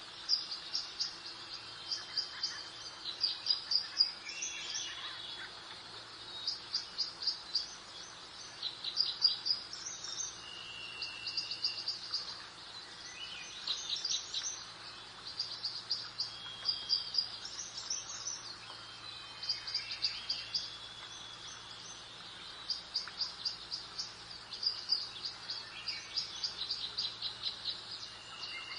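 Songbirds singing, with repeated trills of quick high chirps and a few short whistled notes, over a steady soft hiss of breeze.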